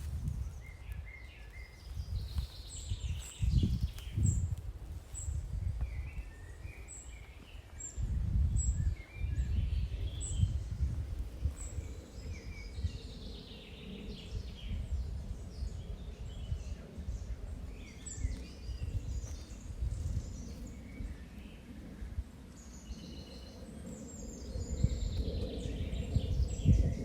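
Small woodland birds singing and chirping, with one short high chirp repeating about once a second through the first half, over an uneven low rumbling noise.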